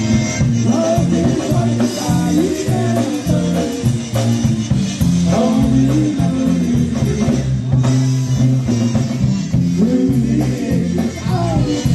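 Live band playing a song with singing over electric bass, drums and guitar.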